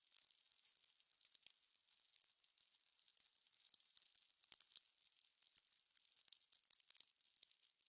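Fire crackling: a soft steady hiss with irregular sharp pops and snaps, a few louder pops around the middle.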